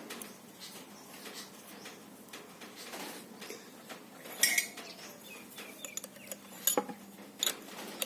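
Metal fittings clinking and tapping as steel air-tank parts are handled and screwed together, with a sharp ringing clink about halfway through and a few more sharp clicks near the end.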